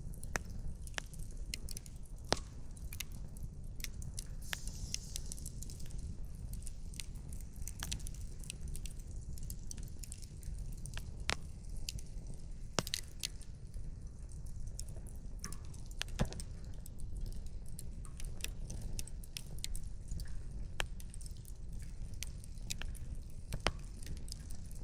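Wood campfire crackling: scattered sharp pops and snaps of burning firewood, a few standing out louder, over a low steady rumble.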